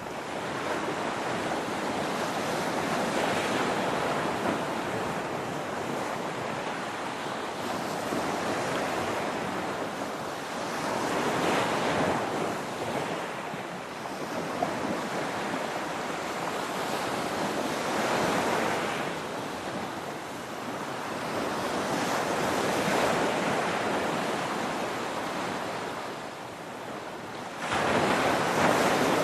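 Ocean surf: waves breaking and washing in, the rush swelling and easing every few seconds, with a louder break near the end.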